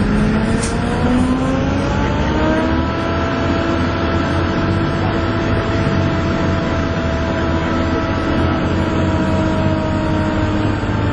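Volvo B7TL double-decker bus's diesel engine under hard acceleration, heard from on board. Its high whine, the 'hoover' sound, rises in pitch over the first few seconds, then holds steady over the low engine drone.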